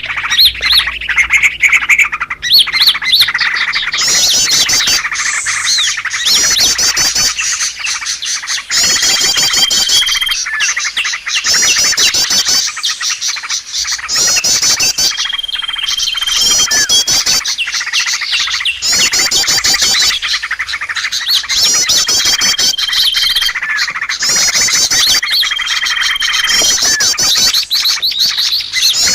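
A recorded mix of small songbirds chattering and chirping in fast trilled phrases, played as a bird-trapping lure call. The phrases repeat every few seconds, with a held whistled note recurring among them. A low hum sits under the first few seconds.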